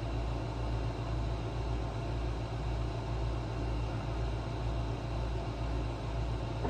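Steady low mechanical hum with a faint even hiss, unchanging throughout, with no distinct knocks or clicks.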